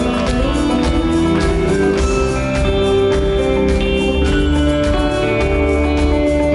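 A live rock band playing an instrumental song introduction, with guitar and held notes over a steady bass and drum beat.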